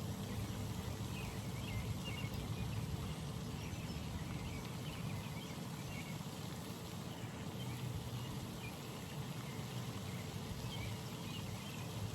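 Outdoor pond ambience: a steady wash of background noise with faint, scattered bird chirps.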